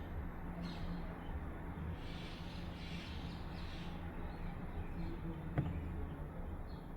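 Washing machine running: a steady low motor hum under recurring soft swishes, with one sharp click about five and a half seconds in.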